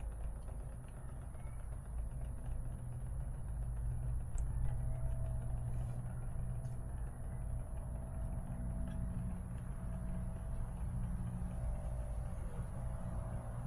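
Engine idling steadily, a continuous low rumble.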